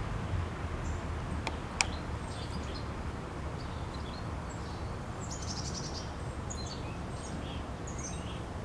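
Small birds chirping intermittently in short high calls over a steady low outdoor background hum, with one sharp click about two seconds in.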